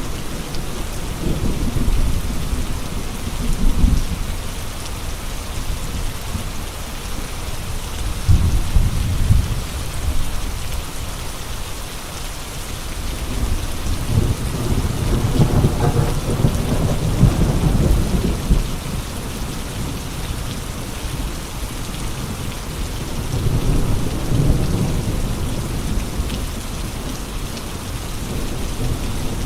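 Steady rain with strong gusty wind, the wind swelling into deep low surges four times.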